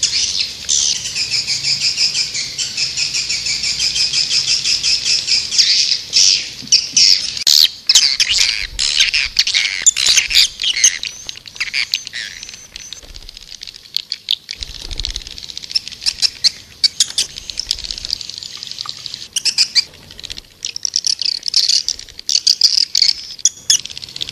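Swiftlets twittering as a dense flock: rapid high chirps and buzzy trills, thinning to scattered chirps about halfway through, then building again. This is a swiftlet call (walet panggil) track, played to lure swiftlets into a nesting house.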